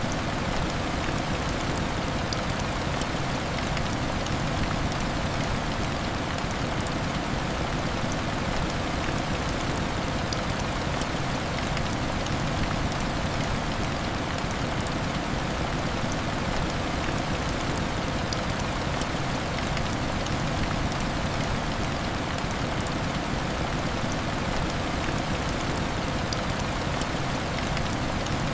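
Heavy rain falling steadily and hitting window glass, an even hiss with faint scattered sharp ticks.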